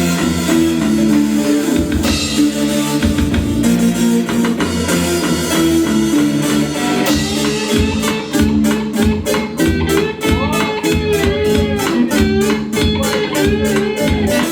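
Rock band music with guitar, bass and drums. From about eight seconds in, a steady drum beat sets in, about four strikes a second.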